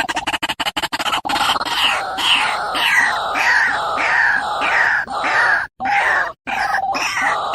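White-breasted waterhen call from a lure recording: loud, repeated croaking notes, each falling in pitch, about two a second, broken by a few short gaps near the end.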